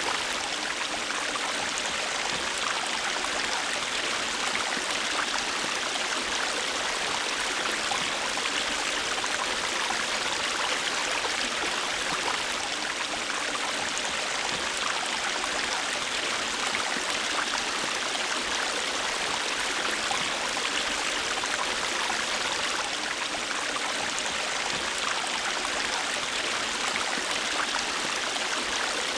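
A river or stream flowing, a steady, unbroken rush of water over rocks.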